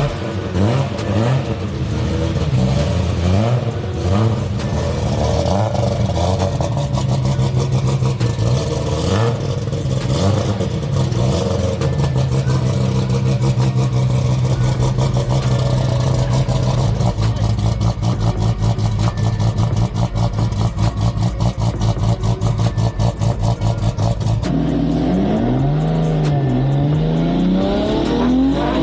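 Tuned RB-series inline-six of a 1500 hp R34 Skyline GT-R running hard. The engine note rises and falls, holds a steady high note for several seconds, then breaks into a fast, even pulsing. Near the end it sweeps up and down in pitch.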